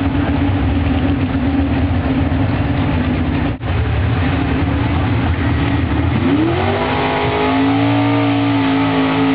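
Altered stock pickup truck engine running hard at high revs under the load of a pull, with a split-second break in the sound about three and a half seconds in. About six seconds in the engine climbs higher in pitch and holds there.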